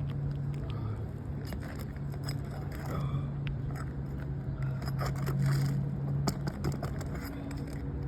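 A tool scraping and clicking as it is worked under roof shingles to reach a roofing nail, over a steady low hum.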